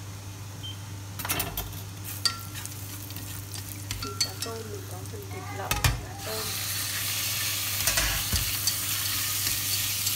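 Minced garlic frying lightly in a stainless-steel pot, with a few clicks and knocks of utensils against the pot. About six seconds in, sliced raw beef drops into the hot fat and the sizzling suddenly gets louder, carrying on as the meat is stirred with wooden chopsticks.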